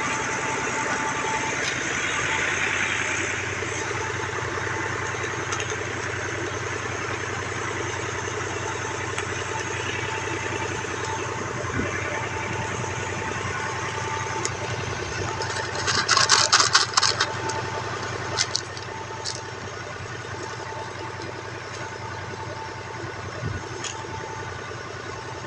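Tractor engine running steadily, with a brief loud burst of rapid rattling clicks about two-thirds of the way through.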